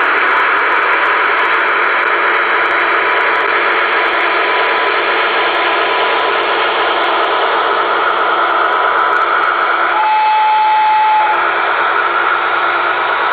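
ESU sound decoder in an LGB V 200 model locomotive playing its diesel-engine running sound through a small loudspeaker, a steady hiss-like rumble. About ten seconds in, a single held tone sounds for a little over a second.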